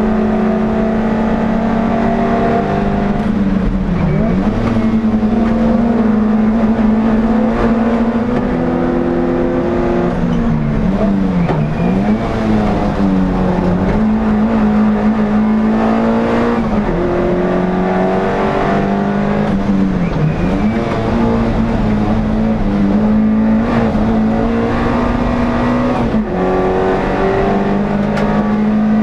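NSU TT race car's air-cooled four-cylinder engine running hard under load, recorded on board. The engine note holds steady for stretches, then drops sharply and climbs back about five times, at each gear change.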